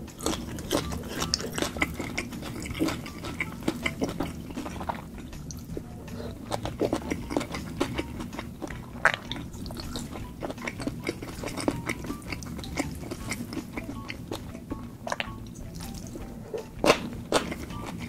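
Close-miked chewing and wet mouth clicks from eating saucy seafood by hand, with fingers sucked clean of sauce, over quiet background music.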